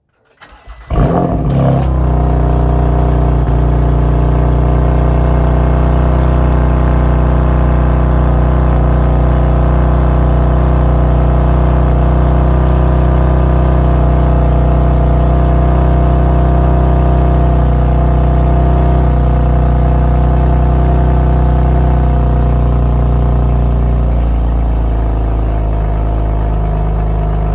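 2019 BMW M2 Competition's twin-turbo inline-six cold start: a brief crank, the engine catches about a second in, then runs at a loud, steady high cold idle. Near the end the idle settles slightly lower and quieter.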